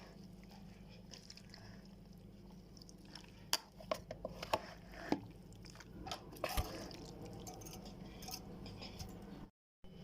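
Scattered small clicks and taps, bunched in the middle, over a steady low hum. The sound cuts out briefly near the end.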